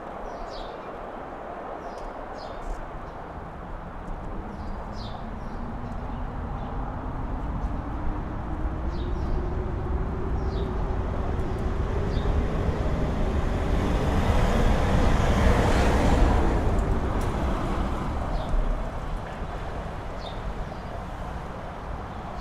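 Mountain wind rumbling, swelling slowly into a strong gust with a rising howling tone about two-thirds of the way through, then easing off. Short bird chirps sound here and there.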